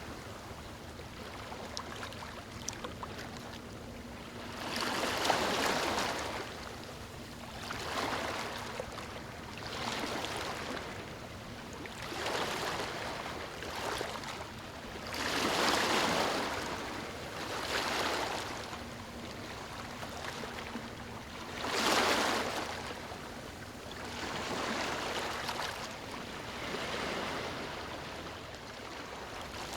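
Small waves lapping on a beach, a wash of water surging and receding every two to three seconds, the biggest about five, sixteen and twenty-two seconds in.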